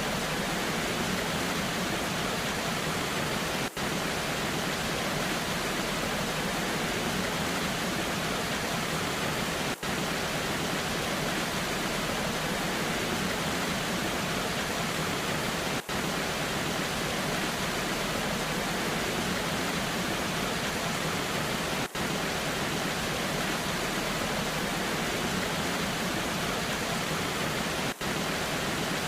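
Waterfall, a steady rush of falling water, broken by a very short dip in level about every six seconds.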